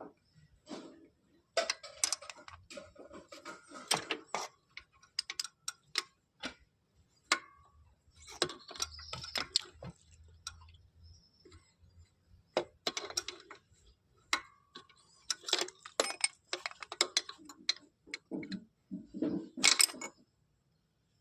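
Irregular metallic clicks, clinks and clanks of hand tools and metal parts being handled during work on a car's carburetor, some with a brief ring.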